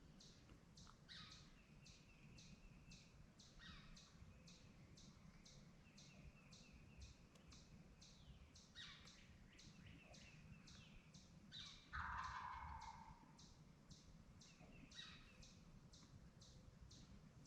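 Faint woodland birdsong: a high chip repeated evenly about two or three times a second, and a slurred call falling in pitch every few seconds. About twelve seconds in comes a louder, lower call about a second long, the gobble of a distant wild turkey tom.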